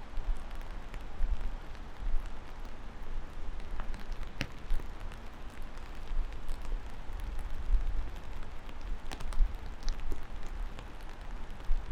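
Steady rain with scattered single drops ticking and splashing close by, over a low, uneven rumble.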